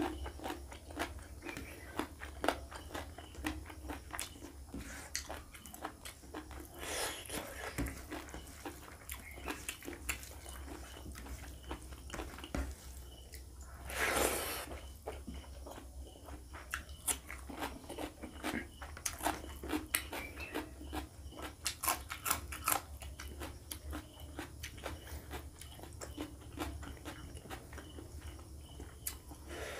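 Close-miked eating sounds of a person eating rice and curry by hand: rapid wet chewing clicks and smacks, with a louder, longer mouth sound about halfway through as a large handful of rice goes in, over a steady low hum.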